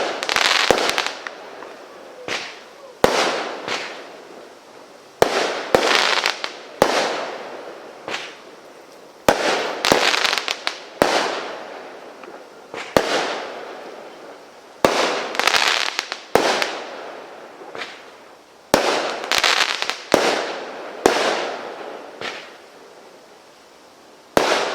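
A firework cake (multi-shot barrage) firing shot after shot, roughly one every one to two seconds. Each shot is a sharp bang followed by a noisy tail that fades over about a second.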